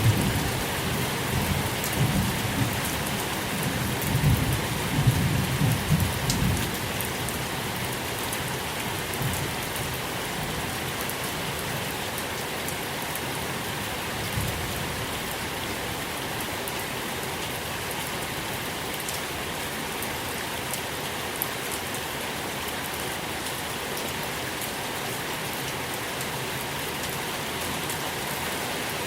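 Steady rain falling on surfaces, a dense even patter, with a low rumble of thunder dying away over the first several seconds.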